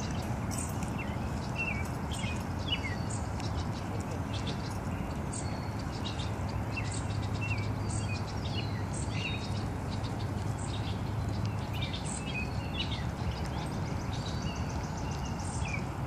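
Small birds chirping in short, scattered calls throughout, over a steady low background rumble.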